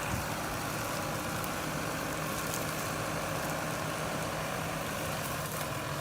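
A heavy tree-pulling machine's engine running steadily, with a constant low hum under a broad mechanical noise.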